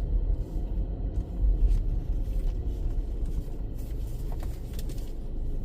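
Low, steady rumble of a car engine running, heard from inside the car's cabin.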